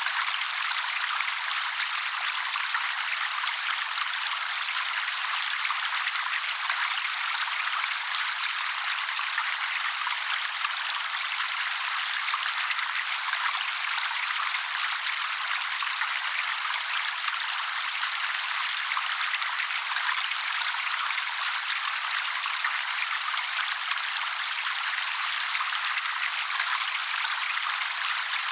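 Steady trickling, splashing water, an even hiss with no deep sound in it and no bird calls.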